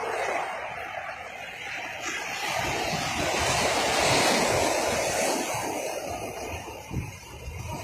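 Ocean surf: a wave breaking and washing up the beach, swelling to its loudest about four seconds in and then ebbing away.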